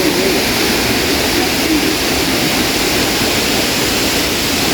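Rushing water of a waterfall close by, a loud, steady, even roar of falling water.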